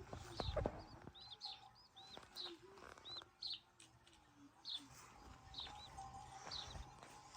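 A small bird repeating short, high chirps about once or twice a second. A few sharp knocks about half a second in are louder than the chirps.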